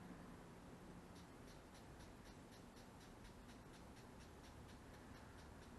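Plastic trigger spray bottle squeezed rapidly over and over, misting water onto a bead design: a quick run of short, soft sprays at about four a second, starting about a second in.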